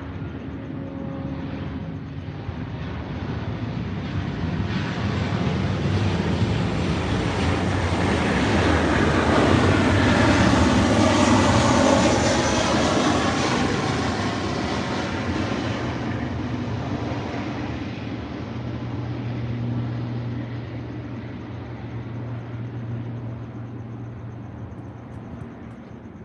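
An aircraft passing overhead: a broad engine rumble that swells for about ten seconds, peaks near the middle, then slowly fades, leaving a low steady drone.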